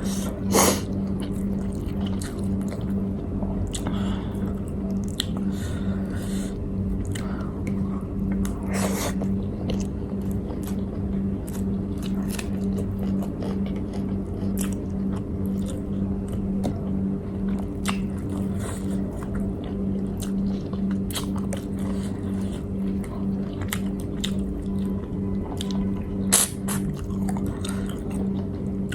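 Close-up chewing and biting as a person eats a meal of grilled chicken and rice, with scattered small clicks and mouth noises. A steady low hum runs underneath.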